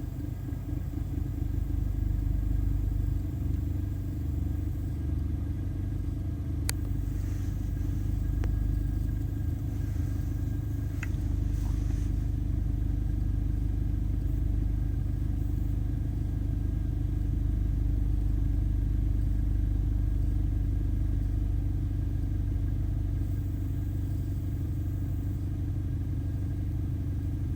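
BMW E46 318i's N46B20 2.0-litre four-cylinder engine idling steadily as a low, even rumble, with a couple of faint clicks about seven and eleven seconds in. The owner attributes its running to mass air flow (MAF) sensor problems.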